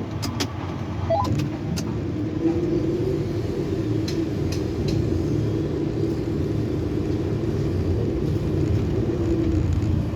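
Tower crane drive motor running with a steady hum over a low rumble. There are a few sharp clicks in the first two seconds.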